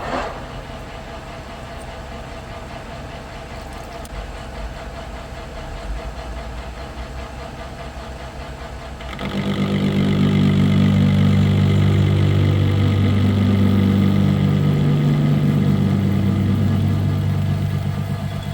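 Metal lathe running steadily while turning down a steel hex bar. About nine seconds in, a much louder, steady low drone with several pitched tones comes in suddenly and holds.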